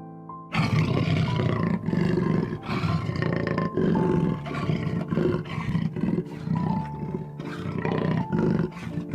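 A large animal calling in a loud series of rough pulses, about two to three a second, starting about half a second in, over soft piano music.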